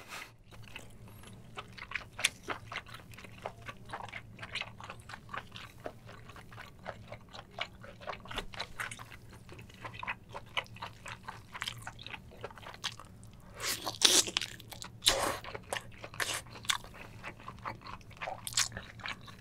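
Close-miked wet chewing of spicy braised long-arm octopus (nakji), a steady run of small sticky clicks and smacks. About 14 seconds in come a few louder wet squelches.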